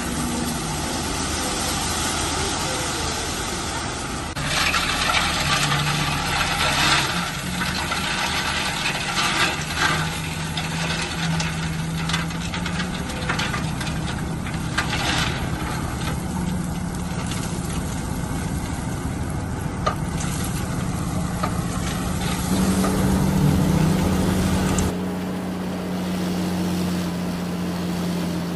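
Heavy diesel construction machinery running steadily, with louder stretches of rattling and scraping as it works rock. About 25 s in the sound changes abruptly to a smoother engine drone.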